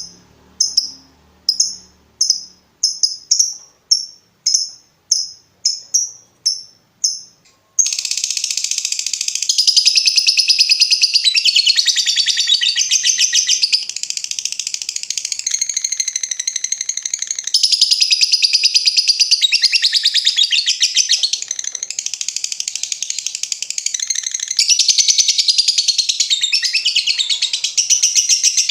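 Lovebird giving single sharp chirps, about two a second (the 'ngetik' call). About eight seconds in it breaks into one long, unbroken, rapid chattering trill (the long 'ngekek'), which runs for about twenty seconds.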